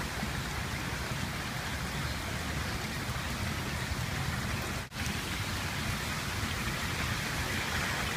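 Steady rushing of floodwater running across the ground, with a brief dropout about five seconds in.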